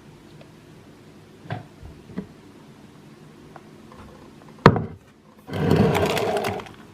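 Kitchen containers and items being handled: two light knocks, a sharp click a little over four and a half seconds in, then about a second of dense rustling noise near the end.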